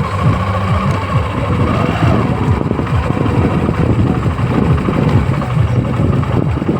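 Tractor's diesel engine running steadily, with a rapid low chugging.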